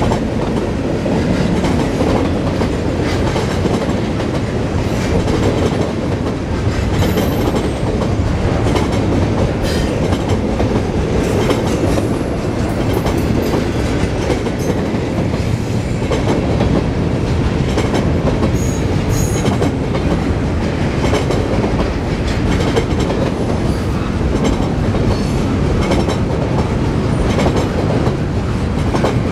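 Double-stack intermodal container well cars rolling past: a steady rumble of steel wheels on rail, with clickety-clack from the rail joints and a few short, faint high squeaks.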